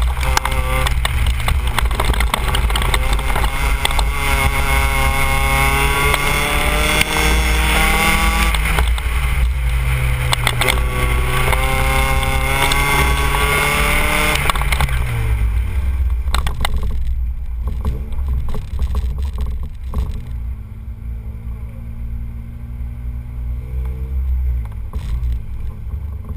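Honda Civic EG8's naturally aspirated D15 single-cam four-cylinder engine under hard acceleration, with wind rushing past, climbing in pitch in two long pulls. About fifteen seconds in the revs fall away and the engine settles to a lower, quieter steady run as the car slows.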